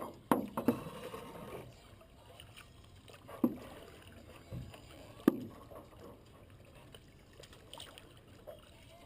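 Paddles knocking and bumping against a small boat's hull while it is paddled, with about four sharp knocks, the loudest a little over five seconds in, over faint water sounds.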